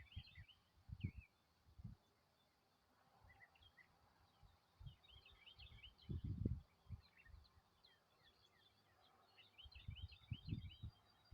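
Faint twittering of small birds: quick runs of short high chirps in three bouts, near the start, around the middle and near the end. Low dull thuds come and go under them.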